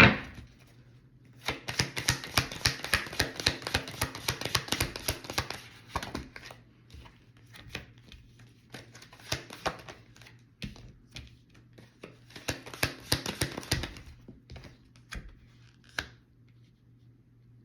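A deck of tarot cards shuffled by hand: a run of quick papery clicks from about 1.5 s to 6 s, scattered single taps, then another quick run around 12 to 14 s.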